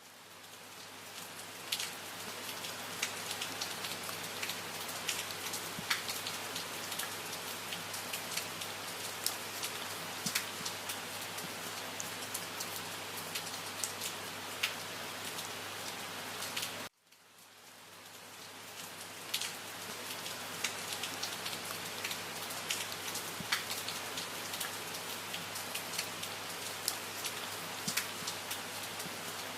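Steady rain falling, with many individual drops ticking sharply on a surface. About 17 seconds in, the rain cuts out almost completely and fades back in over a couple of seconds.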